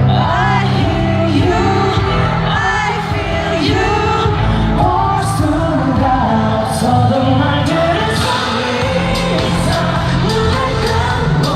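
Live K-pop song played loud over a concert sound system: male group vocals over a steady bass beat.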